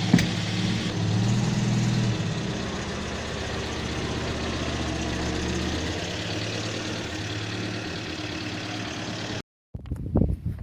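GAZ Volga's ZMZ-24D four-cylinder petrol engine idling steadily, with a sharp click just after the start. Near the end the sound cuts off abruptly and a few short knocks follow.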